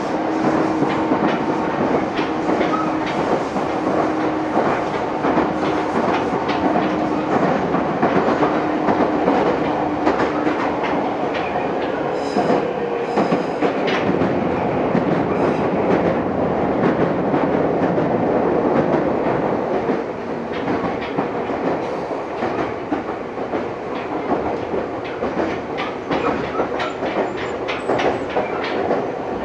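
Meitetsu 6000 series electric train running, heard from inside the car: wheels clacking steadily over rail joints, with a steady tone that fades out about a third of the way through.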